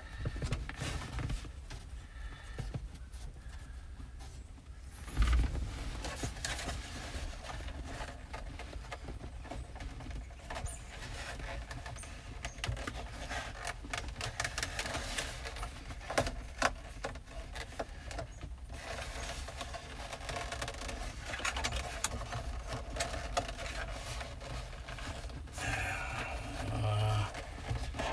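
Hands working flexible heater duct hose and parts under a truck dashboard: scraping, rustling and scattered clicks, with one heavy thump about five seconds in.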